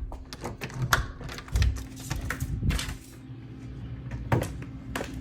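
A front door's lock and latch being handled: a run of irregular mechanical clicks and knocks, over a steady low hum.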